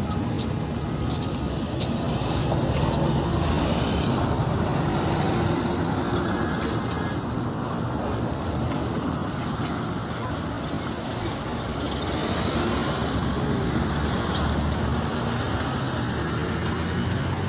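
Steady motor-vehicle engine and road noise.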